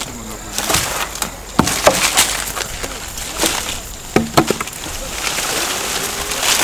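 Wood cracking and knocking in irregular sharp snaps over a rustling hiss, as branches are cut and broken during pruning.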